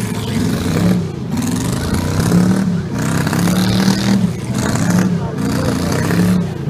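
Stock V8 demolition derby car engines revving hard again and again, the pitch climbing and dropping about once a second.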